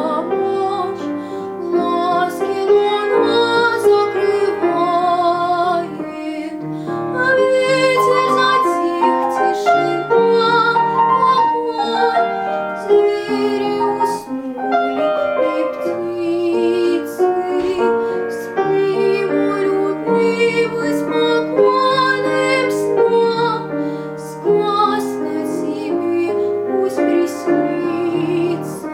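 A girl singing a classical-style arrangement of an Estonian folk lullaby in Russian, with vibrato on the held notes, accompanied by piano.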